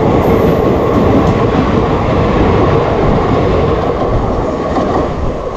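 Loud, steady rumble and clatter of train wheels on rails, heard through an open coach window while another express train passes close alongside.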